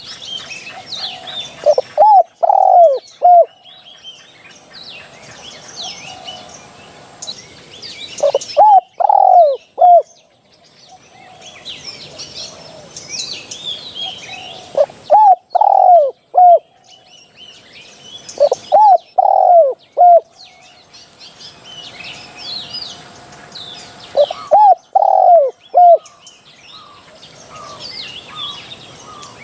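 Spotted dove cooing: short phrases of four or five hollow coos, repeated every three to six seconds, the kind of call used to lure wild spotted doves. Other small birds chirp faintly in the background.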